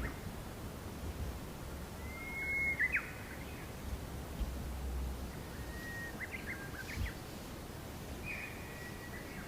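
Birds calling: three short whistled phrases, each a held note broken by quick chirps, over a low rumble.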